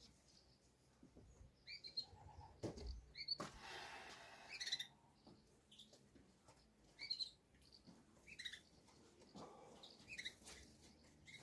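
Faint, scattered short chirps of small birds, with a brief rush of noise about three and a half seconds in.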